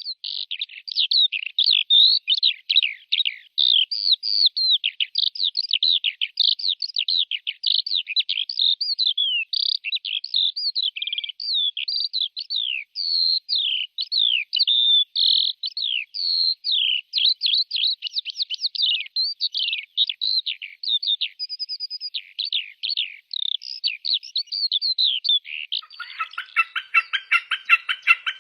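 A songbird singing a long, fast, unbroken string of high chirps and quick down-slurred whistles. About 26 seconds in, a different, lower call with a rapid rattling pulse takes over.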